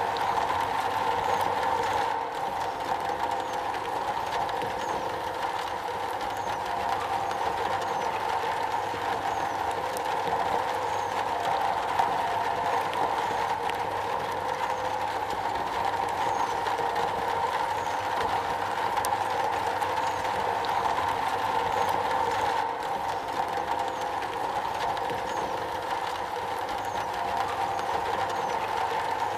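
Steady rain on a metal roof, a dense, even patter of drops with no let-up.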